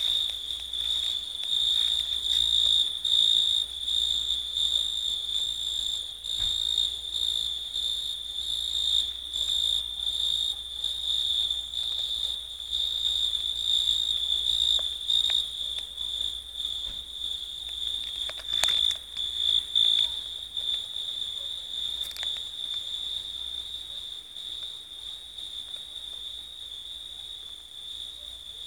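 Grasshoppers and crickets stridulating: a continuous, high-pitched trill that pulses slightly, with fainter, higher trills above it. A single sharp click sounds about two-thirds of the way through.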